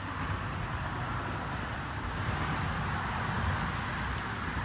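Steady rushing noise with a gusty low rumble of wind buffeting the microphone.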